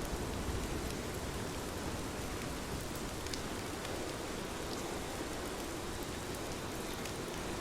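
Steady rain falling, a continuous hiss with scattered sharper drops ticking through it.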